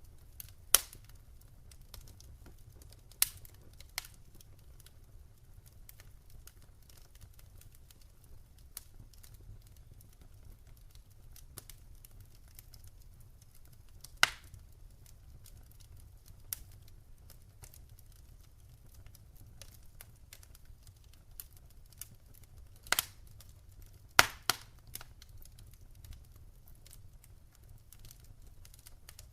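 Wood fire crackling in a fireplace: scattered sharp pops and snaps at irregular intervals over a faint steady low rumble. The loudest pops come about a second in, about three seconds in, near the middle, and as a close pair about three-quarters of the way through.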